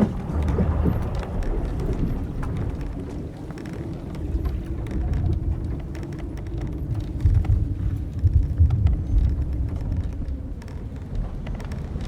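Old wooden sailing ship at sea: wind and waves rumble in gusts while the ship's timbers and rigging give a long, low groan at one steady pitch. A sharp knock comes right at the start.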